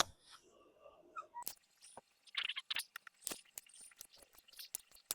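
Hand brace turning a drill bit through a piece of ash, the bit cutting wood with faint, irregular crunching and scraping crackles that begin about a second in.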